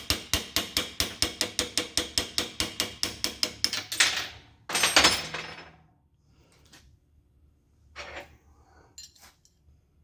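Hand tools working on a steel connecting rod while its bolt is backed off to free the cap from its dowel: a quick, even run of sharp metallic ticks, about six a second, that stops about four seconds in. Two louder metal clatters follow, then a few light clicks.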